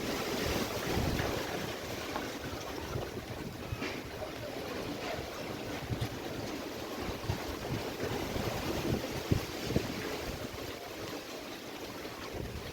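Strong, gusty wind ahead of rain: a steady rushing hiss with irregular low rumbles and thumps as the gusts buffet the microphone.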